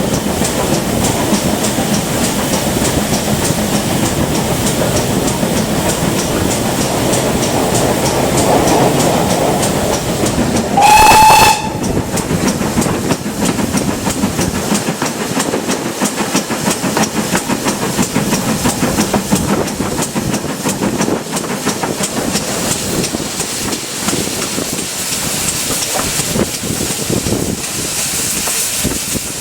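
Steam train running, wheels clicking over the rail joints under a steady hiss and rumble, with one short steam-whistle blast about eleven seconds in, the loudest sound. The locomotive is a GWR Manor-class 4-6-0.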